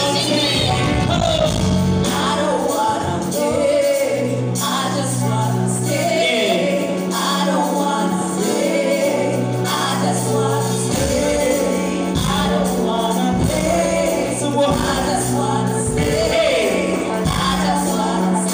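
Live band music with singing: held bass notes under a sung melody.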